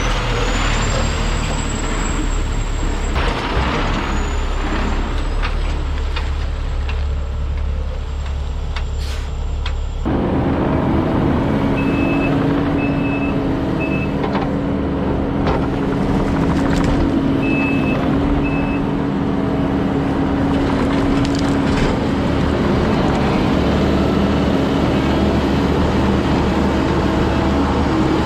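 Truck engine running steadily. The sound changes abruptly about a third of the way in, and in the second half short high beeps of a reversing alarm sound now and then.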